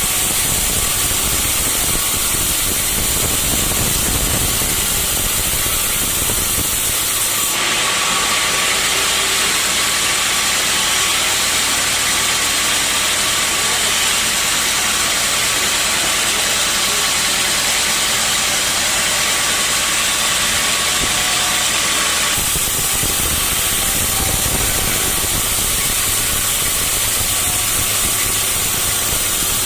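Sawmill saw running with a steady mechanical noise. From about seven seconds in until about twenty-two seconds the sound turns into a brighter, harsher hiss with less low rumble, then returns to the earlier running sound.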